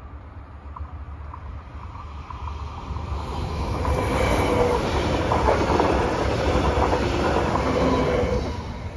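Stadler FLIRT electric multiple unit passing over a level crossing. Its rail noise builds from about three seconds in, is loudest while it crosses, and falls away near the end.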